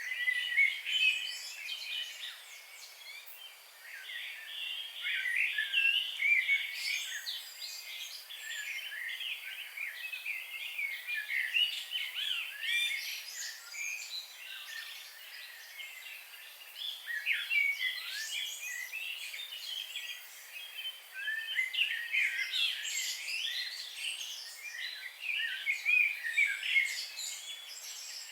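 A chorus of many songbirds chirping and trilling at once, short high calls overlapping without pause.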